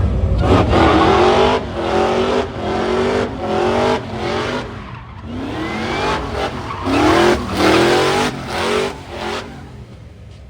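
Car engine revving hard, its pitch climbing and dropping again and again in quick succession, then fading near the end.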